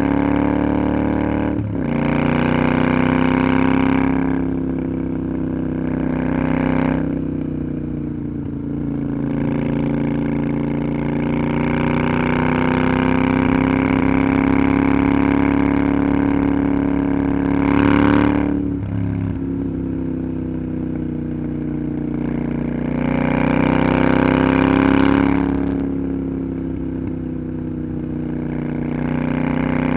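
Motorcycle engine running under way, its revs rising and falling with the throttle. The revs drop sharply about two seconds in and again just past the halfway point, as at a gear change or closing the throttle.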